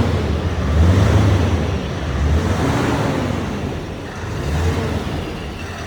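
Scania V8 660 truck's 16-litre V8 engine running and being revved through an aftermarket exhaust diffuser. The deep exhaust rumble swells and falls back several times.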